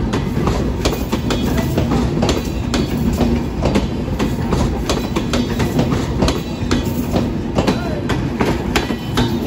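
Sundarban Express passenger coaches rolling past close by. Their wheels click and clack over the rail joints in a quick, irregular series over a steady rumble.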